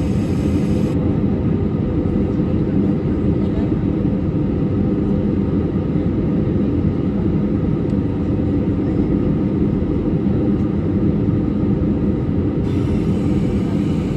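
Passenger airliner's engines and airflow: a steady low drone heard from inside the cabin, unchanging throughout.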